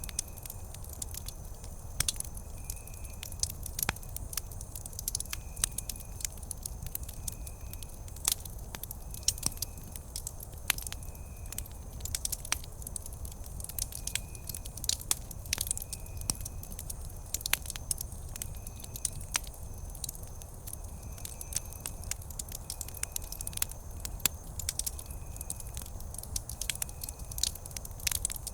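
Wood campfire crackling and popping: a steady low rumble of burning with sharp irregular snaps. A faint high chirp repeats about every one and a half seconds behind it.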